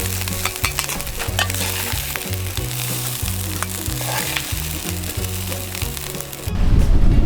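Sausage fried rice sizzling in a frying pan, with scattered sharp clicks of stirring over the steady sizzle. Soft background music with a stepping bass line plays underneath.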